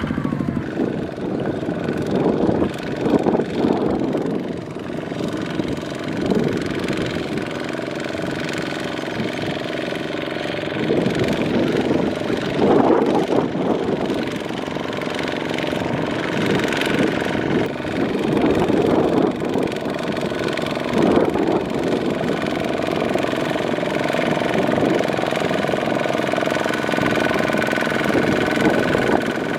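A two-wheel walking tractor's single-cylinder diesel engine runs under load in deep mud. It is steady throughout, with repeated surges where it gets louder as it works.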